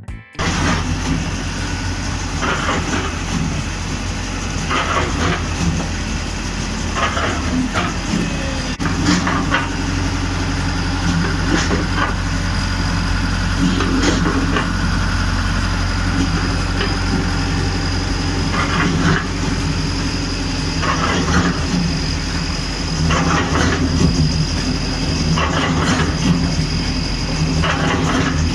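Tractor engine running steadily, driving a homemade tractor-mounted cement mixer, with a short rattling clatter recurring about every two seconds.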